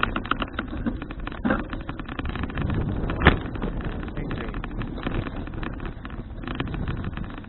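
Wind buffeting the action camera's microphone on a moving bicycle, with a constant rattle and road noise, and a single sharp knock a little over three seconds in.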